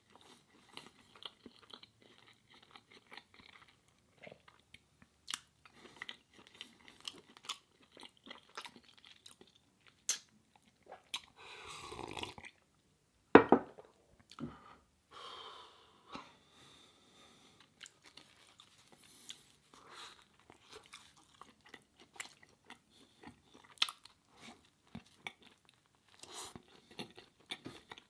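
Close-miked chewing of a ciabatta breakfast sandwich: crunching bread crust, with wet mouth clicks and smacks. About thirteen seconds in comes one brief, much louder sound.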